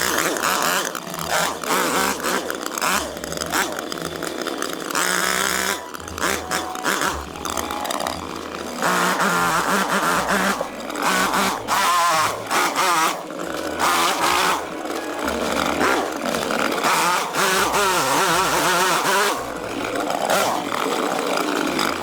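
Chainsaw running, its engine revving up and dropping back again and again.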